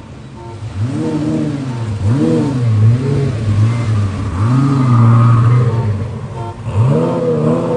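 Twin-turbo Lamborghini Gallardo V10 revved in a series of throttle blips, about five: the pitch rises and falls each time, and one near the middle is held for over a second before dropping back.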